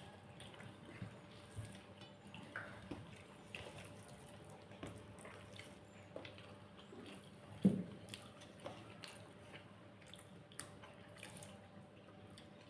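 Faint wet eating sounds: chewing and small mouth clicks scattered irregularly, with one louder soft knock a little after halfway.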